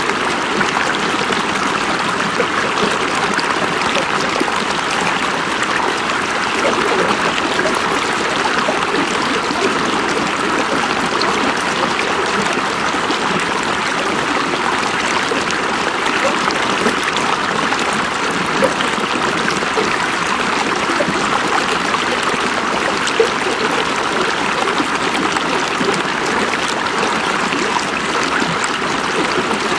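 River water flowing over rocks in a steady rush, with small splashes and gurgles on top.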